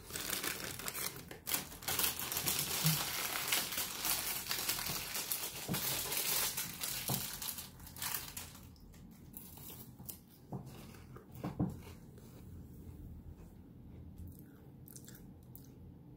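Close crinkling and rustling of a snack packet being handled, dense for about eight seconds, then dying down to a few scattered small crackles and clicks.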